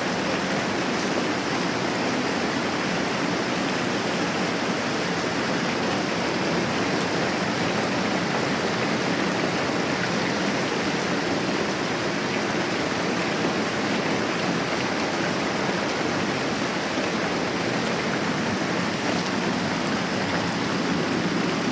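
Moderate rain falling steadily, an even hiss of rain with no breaks or distinct drops standing out.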